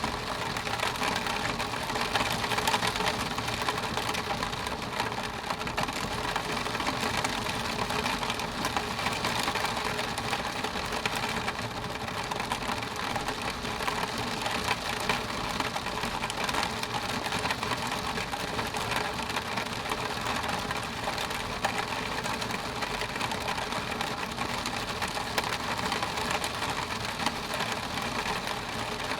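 Steady rain on window glass: a dense, even patter of many drops on the pane.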